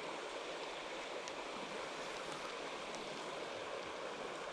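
Mountain stream water running, a steady even rush of flowing water.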